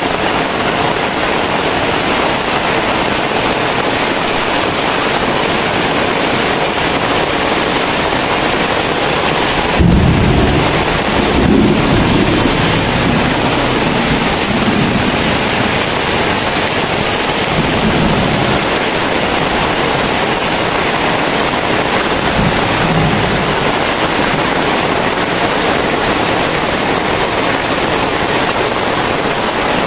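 Heavy rain falling in a steady downpour. About ten seconds in, a clap of thunder breaks into a low rolling rumble that lasts several seconds, with a fainter rumble a few seconds later.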